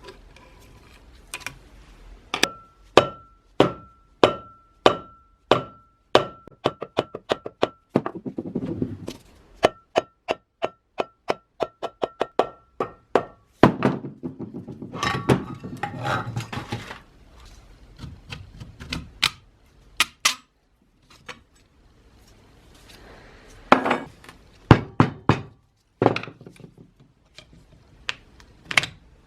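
Hammer striking metal in a steady run of blows about two a second, each with a ringing tone, then a faster run of lighter blows. This is followed by a scraping, rattling stretch and a few scattered knocks.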